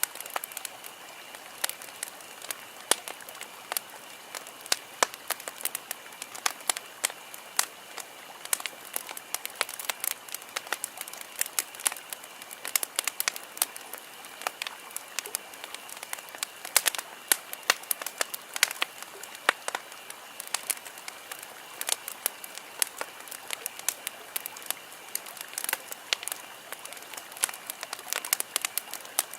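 Wood campfire crackling, with frequent sharp pops and snaps of uneven loudness over a steady hiss of burning.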